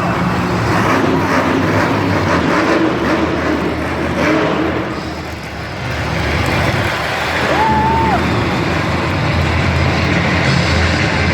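Monster truck engine running loud, easing off briefly about five seconds in and picking up again, with a short high whistle near the eight-second mark.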